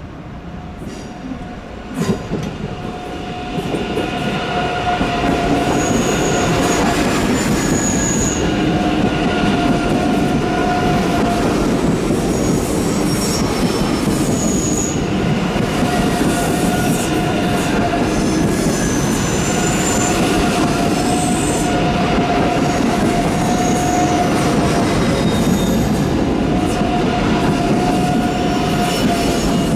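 DB ICE high-speed train rolling slowly past, its rumble building over the first few seconds as it comes close and then staying steady. High, steady squealing tones from the wheels come and go throughout, and there is a single knock about two seconds in.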